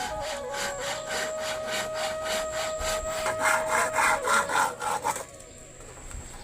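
Fast, rhythmic rasping strokes, about four or five a second, that stop about five seconds in, with a held flute note underneath.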